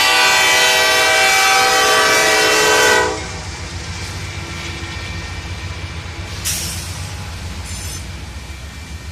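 Freight locomotive horn sounding one long, loud chord that cuts off about three seconds in. After it the lead diesel locomotive rumbles and throbs as the train rolls by, with a brief hiss partway through.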